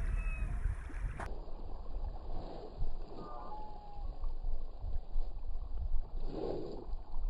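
Wind buffeting the microphone in a gusty low rumble, with a few faint, short calls from gulls.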